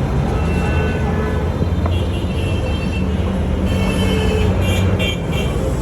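Steady, loud low rumble of motor traffic, with a few short high-pitched tones in the second half.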